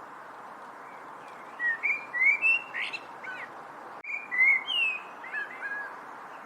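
A songbird singing two short phrases of sliding, whistled notes, one about one and a half seconds in and another about four seconds in, over a steady background hiss.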